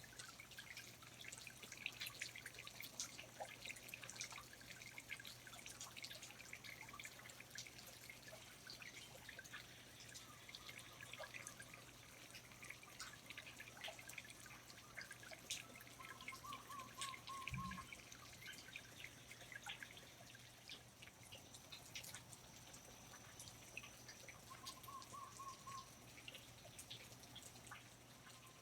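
Faint, irregular water drips, many small drops falling at random. Two short bird chirps come through, one about halfway and one near the end, over a low steady hum.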